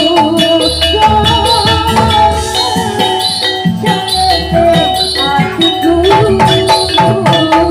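Loud music from a Javanese barongan troupe's ensemble played through a sound system: rapid percussion strikes over sustained melodic lines and a deep bass pulse.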